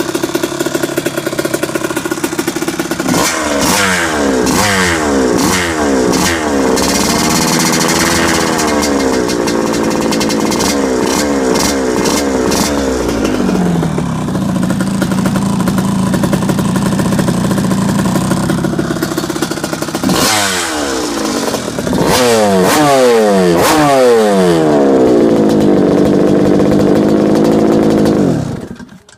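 Kawasaki KX125 125cc two-stroke single-cylinder dirt bike engine fitted with a new exhaust pipe, revved repeatedly with quick rises and falls in pitch and a steadier stretch in the middle. It cuts off just before the end.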